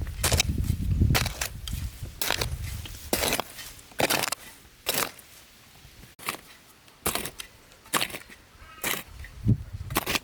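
A series of sharp knocks or chopping strikes, roughly one a second and unevenly spaced, with a low rumble under the first couple of seconds.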